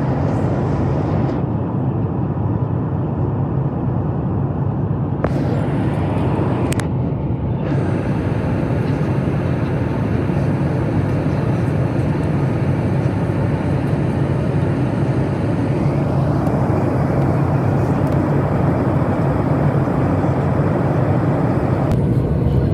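Steady cabin noise inside a Boeing 737 MAX 8 in flight: the low rumble of its CFM LEAP-1B engines mixed with the rush of airflow.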